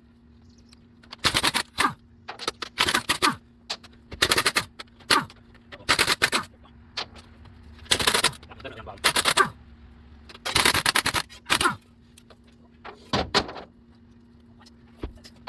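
A hammer beating repeatedly on a seized brake drum and wheel, metal-on-metal blows in short bunches at irregular intervals, meant to break the locked-up drum loose. A faint steady hum runs underneath.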